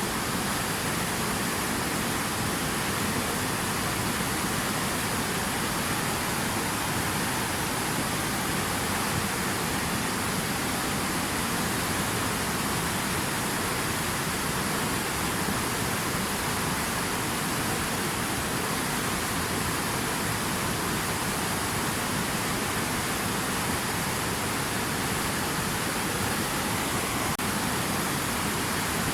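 Steady rushing of falling or flowing water, an even hiss with no separate splashes or drops.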